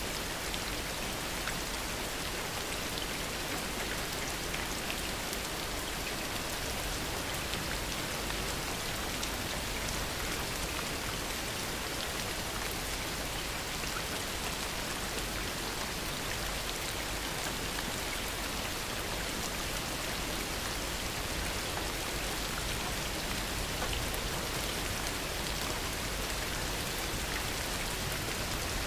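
Heavy rain falling steadily, a dense hiss of drops with many small drop ticks on surfaces.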